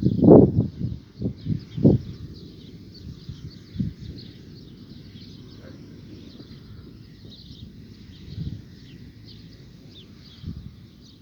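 Birds chirping with many short, high calls throughout. A few low, dull thumps come in the first two seconds, with one more about four seconds in.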